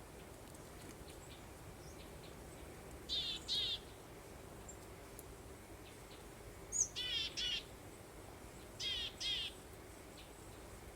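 A songbird singing short phrases of two or three quick warbled notes, repeated about every three seconds, over a steady soft breeze.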